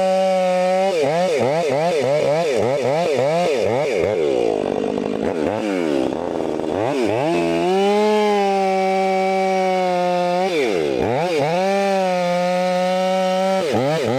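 Chainsaw engine running at high revs and cutting wood. Its pitch falls and recovers over and over as the chain loads up in the cut, with a deeper dip about halfway through and steady high-revving stretches in between.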